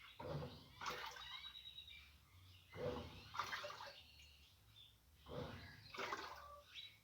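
Easy washing machine agitating a load: water sloshing in pairs of swishes, one pair about every two and a half seconds, over a faint low hum.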